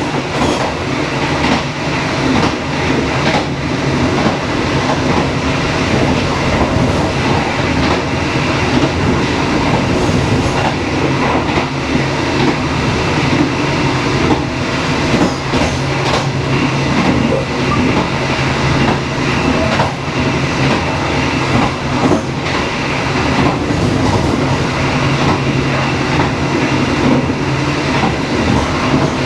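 Passenger train running steadily, its wheels clicking over rail joints above a constant rumble and hum.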